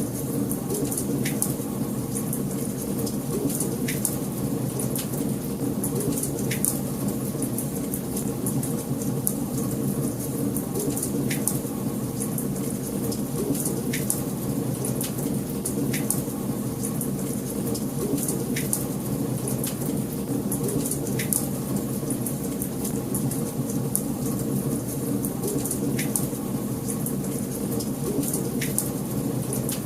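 Wood fire burning in a fireplace: a steady low rushing of flames with sharp crackles and pops every two or three seconds.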